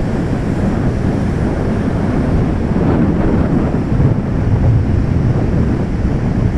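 Strong wind buffeting the microphone over breaking waves: a loud, steady rumbling rush.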